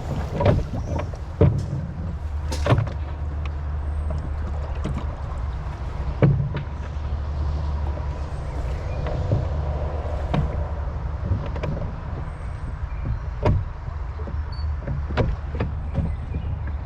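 Rowing boat on a river: irregular knocks and splashes from the oars over a steady low rumble of wind on the microphone, with a few faint bird chirps.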